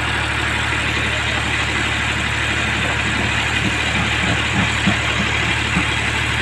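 Tractor engine idling steadily, with a few short knocks about halfway through.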